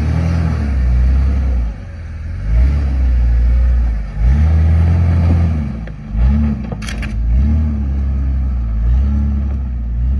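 Off-road vehicle's engine revving up and dropping back again and again as it crawls up a rocky waterfall ledge under load, with a single sharp clack about seven seconds in.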